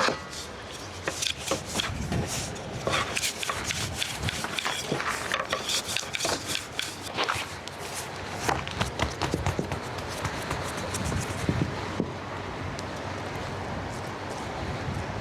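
Irregular rustling, tapping and scraping of things being handled, dense for about eleven seconds, then dying down to a steady faint hiss.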